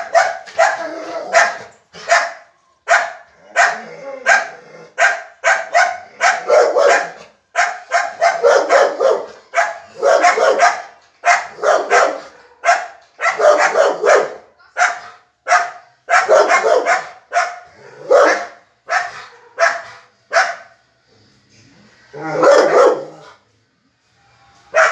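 A dog barking and yelping over and over in short, irregular bursts, with a longer drawn-out one near the end, reacting to another animal.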